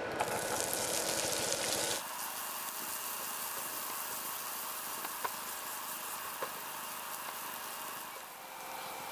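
Samosas frying in hot oil: a steady sizzle with a few faint pops. The sizzle changes abruptly about two seconds in, dropping to a softer, thinner hiss.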